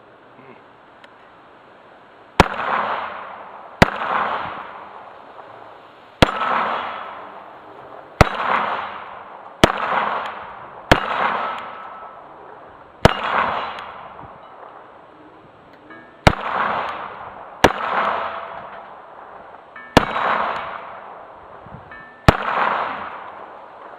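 Pistol firing slow aimed single shots at a steel plate target, about eleven shots with irregular gaps of one and a half to three seconds. Each shot is followed by a ringing that fades over about a second.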